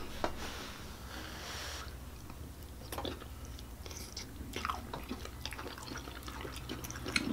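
Two people chewing mouthfuls of soft, cheesy spaghetti squash, with faint scattered mouth smacks and small clicks over a low steady hum.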